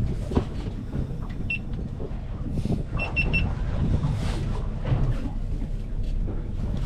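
Fishing boat's engine running steadily with a low rumble and occasional knocks, with short high electronic beeps: one about a second and a half in, then three quick ones about three seconds in.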